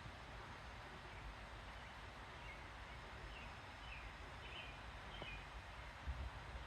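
Faint outdoor ambience: a steady hiss with low rumble, and a few short, faint bird chirps in the middle.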